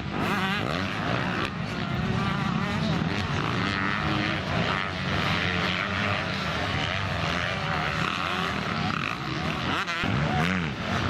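Several motocross bikes racing, their engines revving up and down with the throttle as they go round the track, several pitches overlapping.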